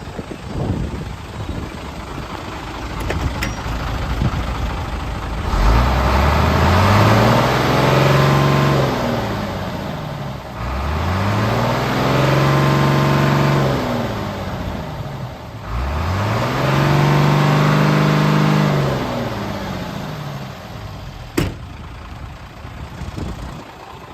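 Hino Ranger dump truck's J08C inline-six diesel engine idling, then revved three times, each rev climbing quickly, held for two to three seconds and dropping back to idle. A single sharp click comes near the end.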